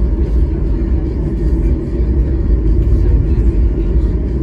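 Steady low rumble of a Boeing 737 MAX 8's engines and airflow heard inside the passenger cabin.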